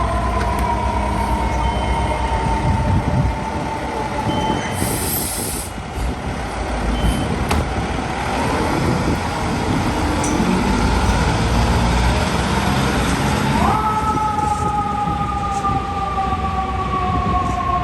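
Fire truck siren: a two-note wail that slowly falls in pitch and fades over the first few seconds, then is sounded again about fourteen seconds in, rising sharply and then winding slowly down. Heavy truck engine and street traffic rumble underneath, with a short hiss about five seconds in.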